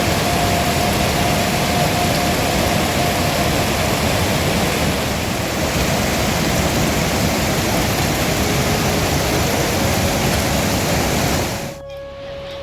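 Loud, steady rushing noise, even across all pitches, that cuts off suddenly near the end.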